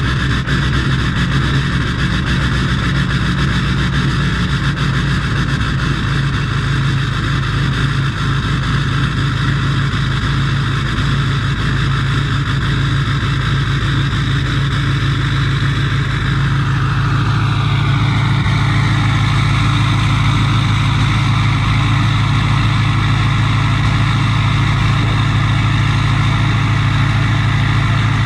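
2006 Duramax LBZ 6.6-litre V8 turbodiesel with a 5-inch straight-pipe exhaust, running just after a cold start with its glow plugs unplugged. About two-thirds of the way through, its pitch drops and the sound settles to a steady, slightly louder note.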